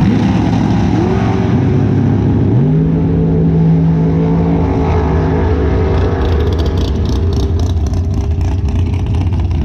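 Loud drag-race car engine noise, with an engine's pitch climbing sharply about two and a half seconds in, holding for about two seconds, then fading back into the steady rumble. A run of quick clicks follows near the end.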